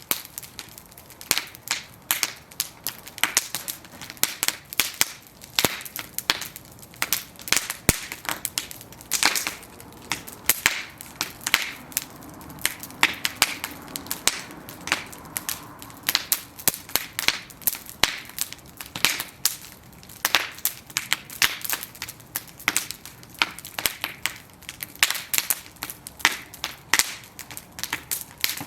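Bonfire of burning wooden planks crackling, with a dense, irregular run of sharp pops and snaps from the burning wood over a faint hiss.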